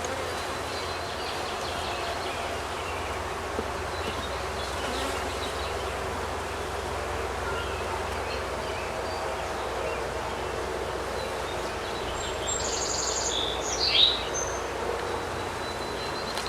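Honey bees buzzing steadily around an open hive as its frames are inspected. A bird chirps briefly about three-quarters of the way through.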